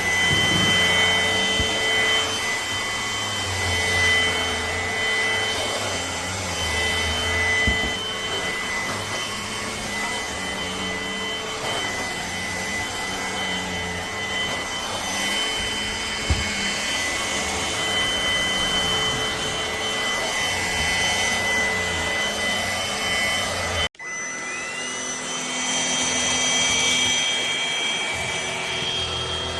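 Cordless stick vacuum's motor running with a steady high whine over the rush of suction airflow. About 24 seconds in the sound breaks off for an instant, then the motor whine rises as it spins back up and settles.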